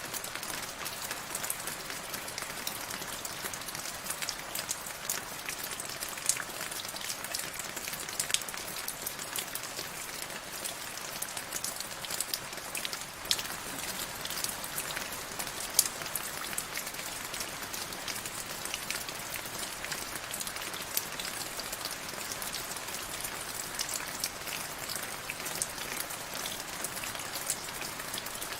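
Steady rain falling, an even hiss with many separate drops ticking sharply on a surface, a few of them louder than the rest.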